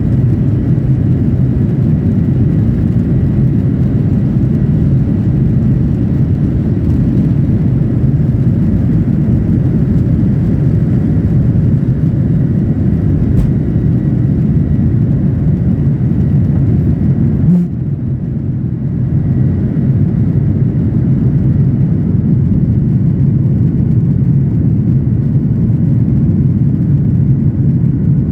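Steady jet engine and airflow noise heard inside an airliner's passenger cabin, with a faint thin whine above it. The level dips briefly about two-thirds of the way through, then returns.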